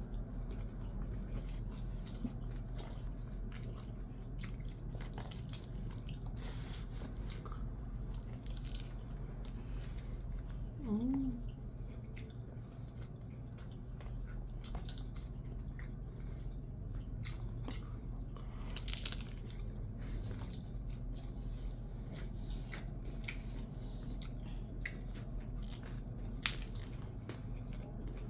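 Close-up chewing and biting: irregular crisp clicks and crunches of food in the mouth, over a steady low hum. A brief voice-like hum about eleven seconds in.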